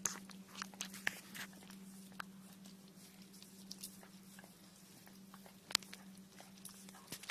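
A dog licking a person's feet and toes: irregular wet smacking clicks, most of them in the first second and a half, with a few sharper ones later on. A steady low hum runs underneath.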